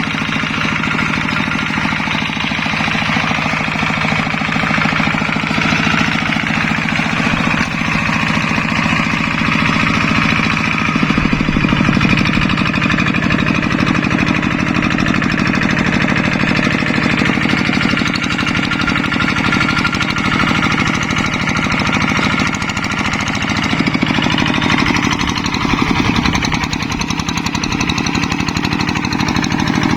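Single-cylinder diesel engine of a Yanmar hand tractor running steadily with a fast, even knocking beat. Its note shifts about a third of the way in and again later on.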